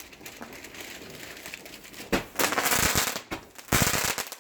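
Small fireworks going off: two loud bursts of hissing crackle in the second half, each under a second long.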